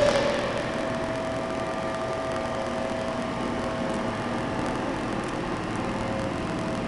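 Hankook VTC-85R CNC vertical turning center running a live-milling operation: a sudden louder onset right at the start, then a steady whine over a constant machine hum.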